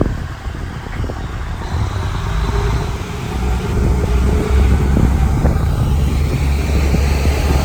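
KiHa 110 series diesel railcar running, its engine drone growing louder and deeper about four seconds in.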